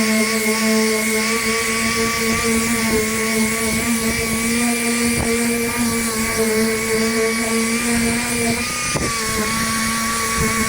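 A motor running at a steady speed with a constant whine, its pitch dipping briefly near the end, with a couple of faint knocks.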